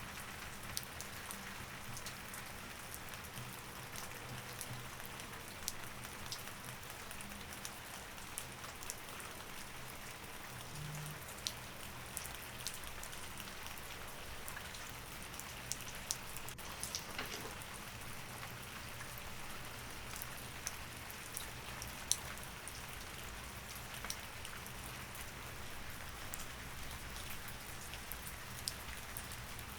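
Steady rain, with many scattered sharper drops ticking on a surface.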